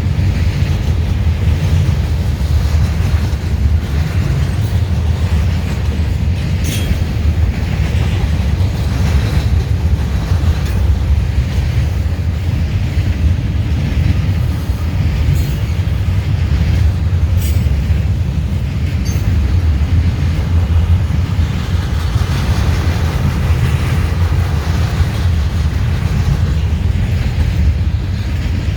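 Norfolk Southern freight train rolling past, its cars making a steady heavy rumble with scattered sharp clicks from the wheels.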